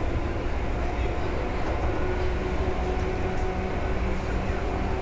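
Seibu 2000 series electric train running at a steady speed, heard from inside the car: a heavy rumble of wheels on rail under a steady hum of several tones.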